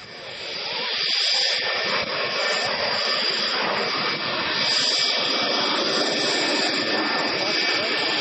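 Panavia Tornado IDS's twin RB199 turbofan engines running: a steady rush of jet noise with a high, even whine on top, swelling in over the first second.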